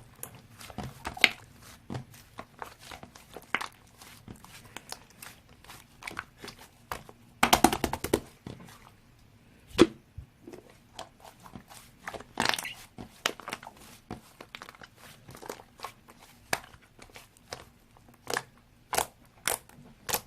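Slime being squished and stretched by hand: irregular sticky clicks and crackles, with a dense run of crackling about seven and a half seconds in and several sharper pops near the end.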